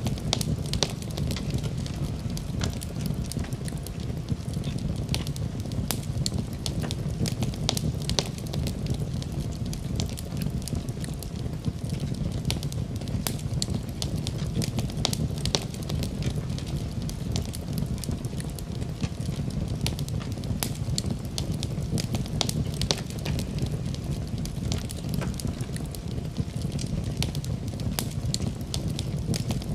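Fireplace fire crackling: a steady low rumble of flames with frequent, irregular sharp pops and snaps.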